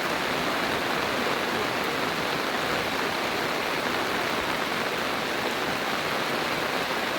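Steady, even hiss of rushing water, heavy and unbroken.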